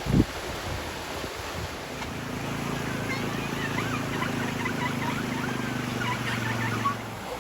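An engine running steadily, starting about two seconds in and stopping just before the end, with birds chirping over it. There is a low thump right at the start.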